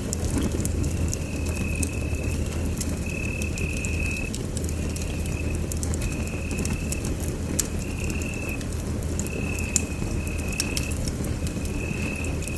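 Wood fire burning in a fireplace: a steady low rumble of the flames with frequent sharp crackles and pops. A thin high whistle comes and goes every second or so throughout.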